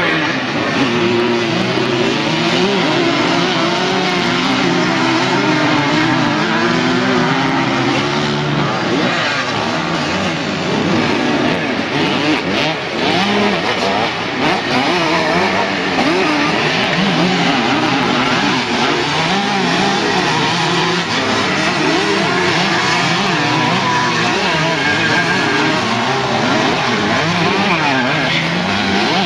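Several vintage motocross motorcycles racing, their engines revving up and down over one another without a break.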